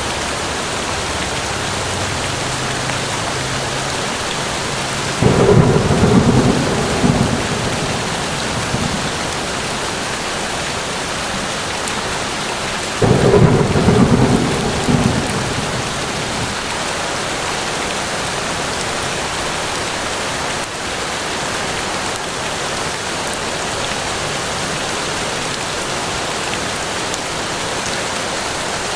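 Steady rain falling on a forest, with two short rolls of thunder, one about five seconds in and another about thirteen seconds in, each rumbling for two or three seconds before fading back into the rain.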